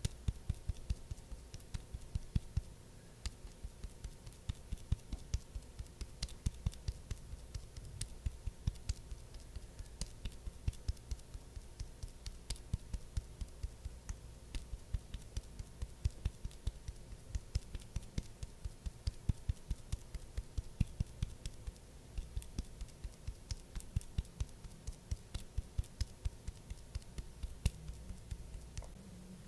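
Quick, light tapping clicks, about three to four a second, keeping up an uneven, steady pace throughout.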